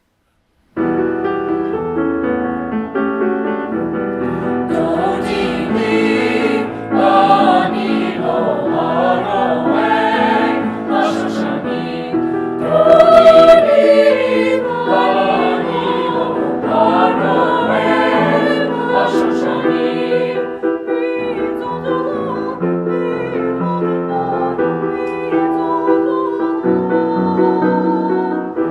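High school choir singing with piano accompaniment, starting abruptly about a second in.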